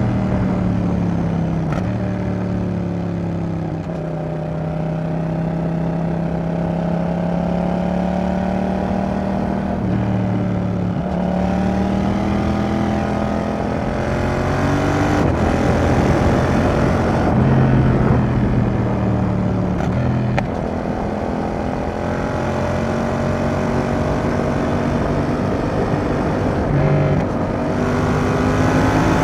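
Yamaha XSR700's 689 cc parallel-twin engine running through an aftermarket Roadsitalia Double Fire exhaust while the bike is ridden. Its pitch rises and falls several times with the throttle.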